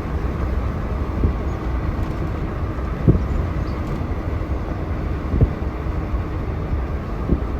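Freight train rolling past with a steady low rumble, its wheels knocking over rail joints about every two seconds.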